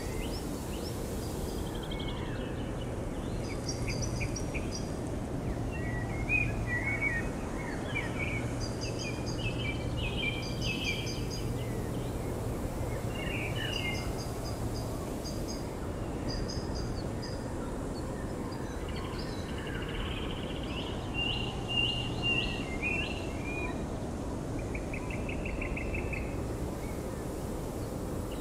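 Several birds chirping and trilling in short calls throughout, over a steady low rumble of background noise.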